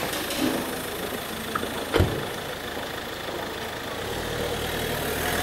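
Car engine idling close by, a steady running sound. There is a sharp click about two seconds in, and a low rumble builds near the end.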